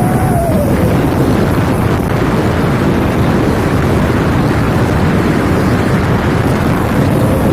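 Truck with a modified 'serigala' (wolf) exhaust, running loud and steady with a rushing, wind-like noise. A howling tone that rises and falls fades out about a second in.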